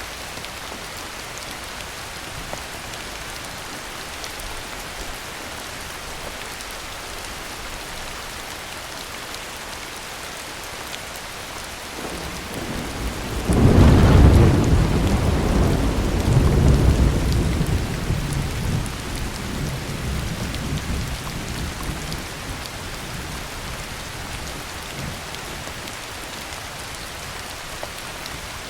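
Heavy rain falling steadily, with a thunderclap near the middle: a low rumble builds, then a sudden loud crack that rolls away over several seconds.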